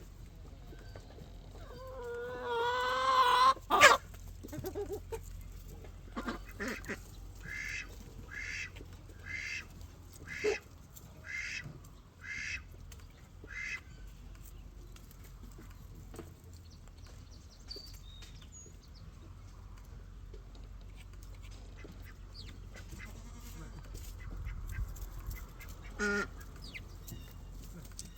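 Birds calling: a loud, wavering, honk-like call about two seconds in, ending with a sharp click. Then a run of about eight short, evenly spaced calls, a little under one a second, and one more short call near the end.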